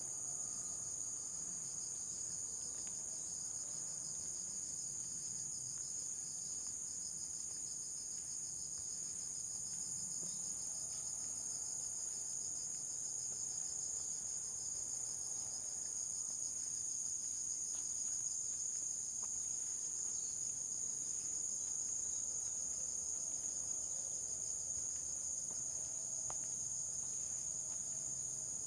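Insect chorus chirring steadily, a high, finely pulsing trill that runs on without a break.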